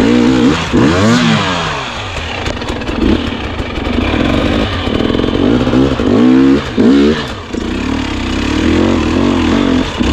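Two-stroke enduro dirt bike engine revving up and down in repeated throttle bursts under load on a steep climb, its pitch rising and falling sharply several times.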